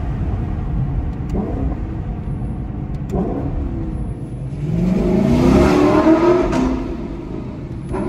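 Lexus LC500's 5.0-litre V8 heard from inside the cabin, running at moderate load at first. From about four and a half seconds in it revs up under hard acceleration, its note rising and growing louder for about two seconds, then it drops back as the driver eases off.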